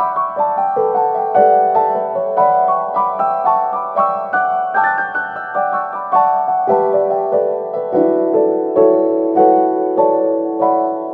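Background piano music: a steady flow of gently struck notes over held tones.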